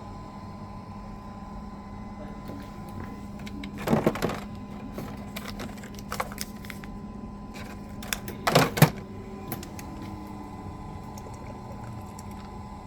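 Smart coffee machine with a steady hum, and two loud short clattering knocks, one about four seconds in and one about eight and a half seconds in, with scattered small clicks between.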